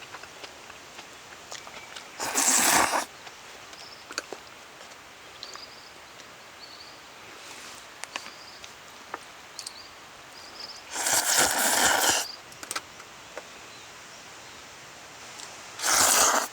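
Faint bird chirps in the background, broken three times by a short, loud burst of scraping noise about a second long, near the start, past the middle and at the end.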